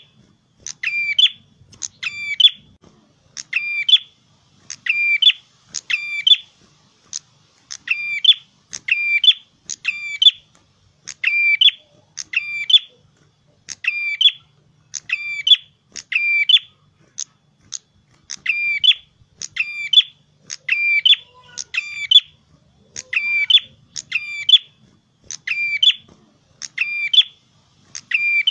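A prenjak kepala merah songbird singing, repeating the same short, high-pitched phrase about once a second, with a brief pause about two-thirds of the way through.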